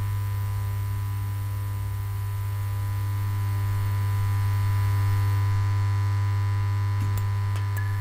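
Electronic music intro: a steady low synthesizer drone with a thin, higher steady tone and faint hiss above it, and a few faint clicks near the end.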